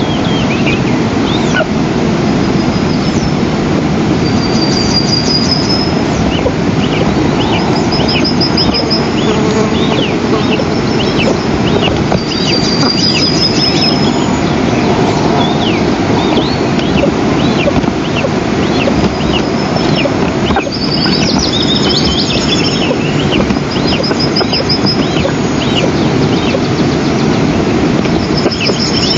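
Eastern imperial eagle chicks give repeated thin, high calls that fall in pitch, the food-begging calls of hungry eaglets. Short high trills of small birds come in between, all over a steady rushing noise.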